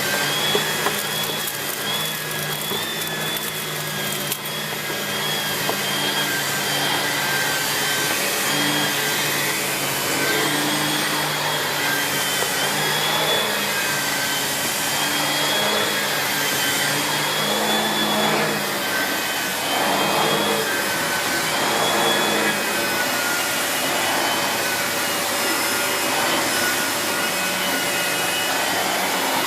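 Miele S8730 (C3 Complete) cylinder vacuum cleaner running steadily while vacuuming, its motor whine wavering slightly in pitch over a constant rush of suction air.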